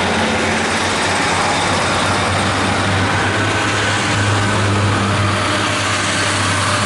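A train running close by: a steady, loud noise with a low steady hum, neither rising nor falling.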